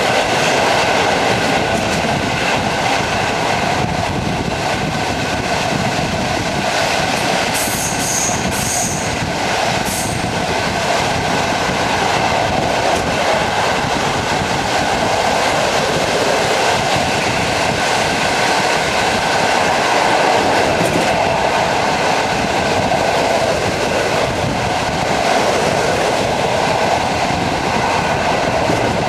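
Train running steadily on the rails: a continuous rumble and hiss with faint steady high tones over it. A few short high clicks come about eight to ten seconds in.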